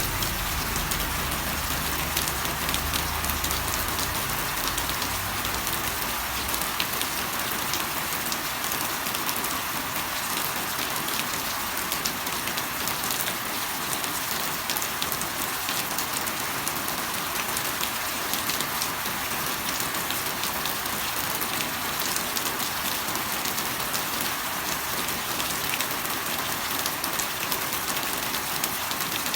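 Steady rain falling, a dense hiss with many separate drops ticking close by. A low rumble underneath fades out in the first several seconds.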